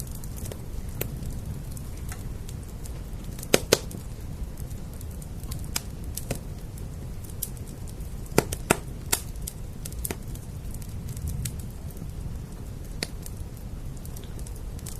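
Crackling wood fire giving scattered sharp pops, the loudest a close pair about three and a half seconds in and another about eight and a half seconds in, over a steady low rumble of rain.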